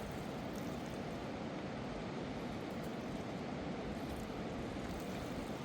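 Steady rushing of a fast-flowing river, an even wash of water noise with no change in level.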